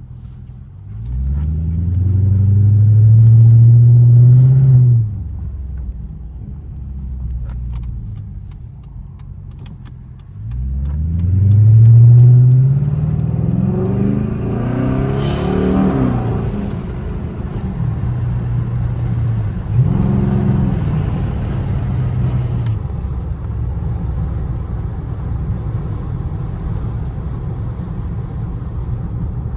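Straight-piped Chrysler 300C's HEMI V8 exhaust under hard acceleration, its pitch rising through two long pulls, the first cutting off sharply after about four seconds. A shorter pull follows, then a steady low drone at cruise.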